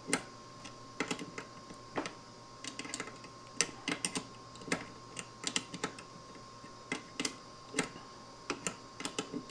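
Light, irregular metallic clicks and taps of a carriage bolt and nut being worked with hand tools, drawing the bolt's square shoulder into the wood. A faint steady hum runs underneath.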